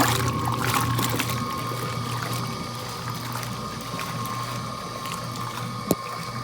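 Electric laundry machine running: a steady motor hum with water running and splashing, and a single sharp click near the end.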